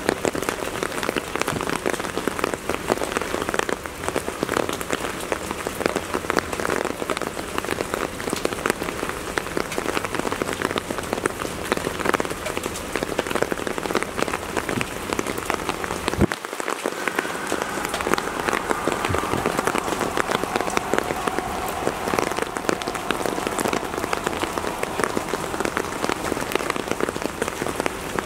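Steady rain, with a dense patter of drops striking nearby surfaces.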